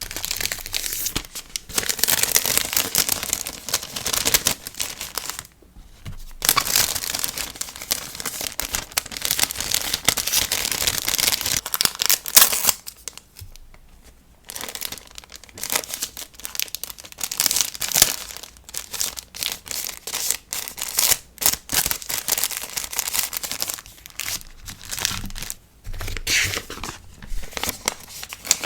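Packing materials crinkling and tearing as an order is packed by hand, in long dense stretches with short pauses about six and fourteen seconds in.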